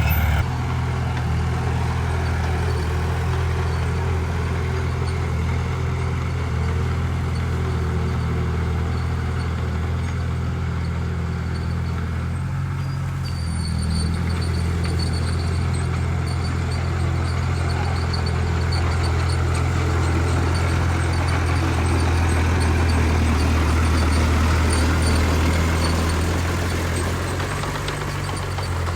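Heavy diesel engine of earthmoving machinery running steadily, with small shifts in its pitch partway through and near the end.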